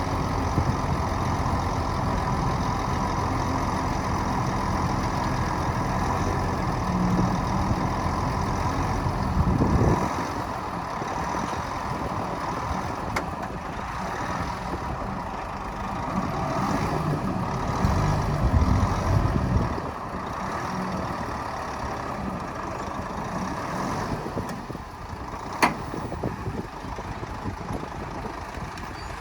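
Heavy diesel earthmoving machinery running: a loud, steady low engine drone for about ten seconds that then drops off, a surge of engine noise a few seconds past the middle, and a single sharp click near the end.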